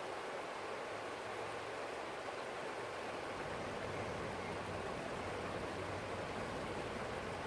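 Forest stream flowing, a steady, even rush of water with no distinct splashes.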